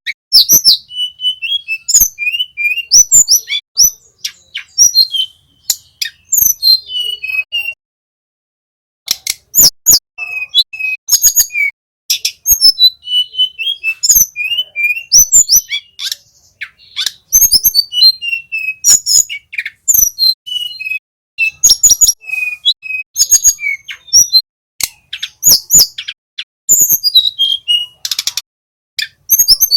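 Tledekan gunung, a small songbird, singing fast, high chirps and twittering phrases mixed with sharp clicks, pausing for about a second roughly eight seconds in.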